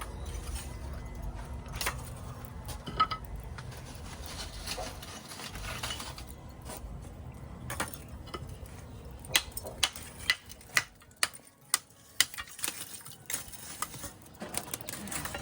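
Kitchen utensils and dishes clinking and knocking, with a low rumble in the first few seconds and a quick run of sharp clicks in the second half.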